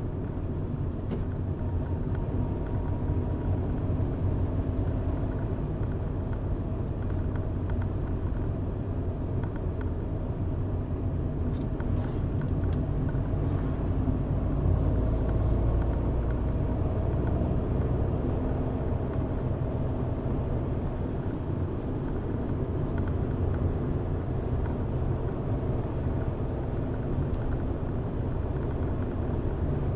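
A car driving along a road: the steady low rumble of its engine and tyres, rising a little about halfway through.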